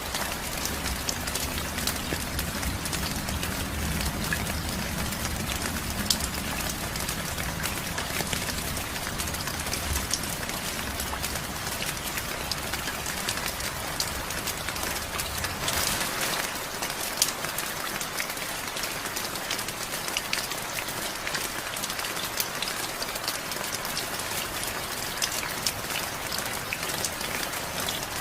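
Steady rain, with many separate drops striking close by. A low rumble underneath fades out about halfway through.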